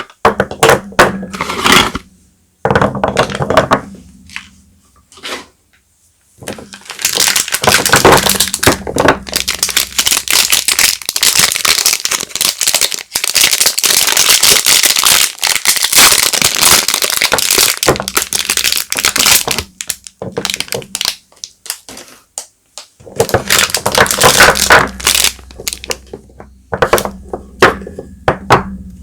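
Bar soap packaging being handled and opened: wrappers crinkling and crackling with small knocks, in long spells broken by brief pauses.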